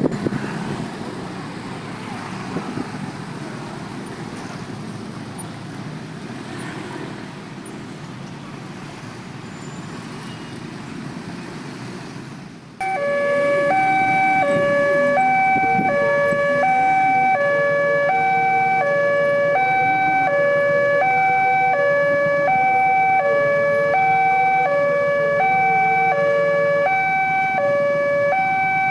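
Road traffic noise, then about halfway through a railway level crossing's electronic warning alarm switches on suddenly and loudly, a two-tone signal switching between a higher and a lower pitch about every half second. It signals an approaching train, with the crossing barrier about to close.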